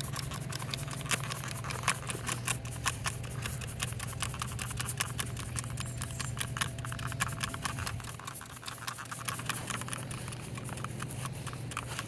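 Trigger spray bottle of degreaser being pumped over and over: a fast, uneven run of short hissing sprays. A low steady hum runs underneath and dies away near the end.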